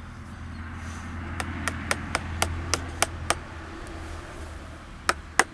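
Mallet striking a wood chisel into a log: a quick run of about eight sharp knocks, roughly four a second, then two more near the end.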